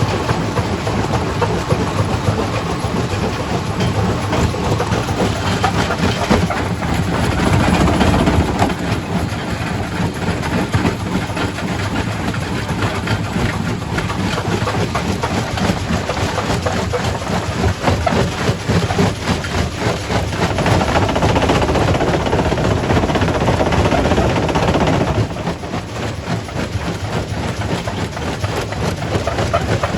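Primary rock crusher crushing stone: a continuous loud rumble and clatter of rock breaking and tumbling, with the machinery running underneath. It eases off somewhat near the end.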